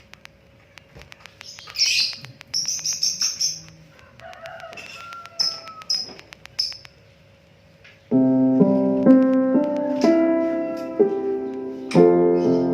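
A small bird chirps in short, high bursts over faint ticking. Piano music comes in suddenly about eight seconds in.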